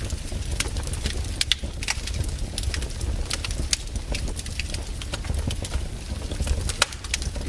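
Wood campfire crackling, with frequent, irregular sharp pops and snaps over a steady low rumble.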